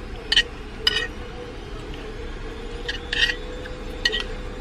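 Spoon clinking against a dish four times in short, ringing clinks, over a faint steady hum.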